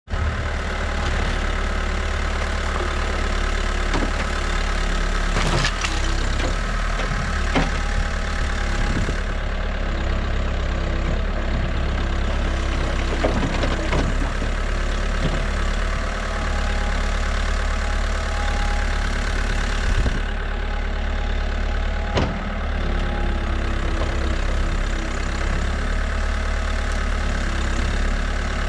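Diesel engine of a New Holland backhoe loader idling steadily, with a few short sharp knocks or clanks now and then.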